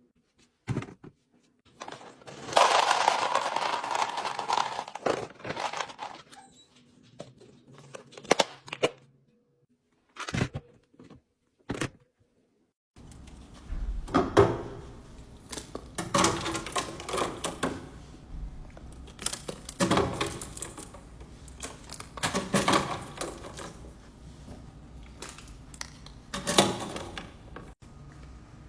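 Clicks, knocks and rustling of food packages and containers being handled and set down, with a few seconds of crinkling or tearing noise about three seconds in.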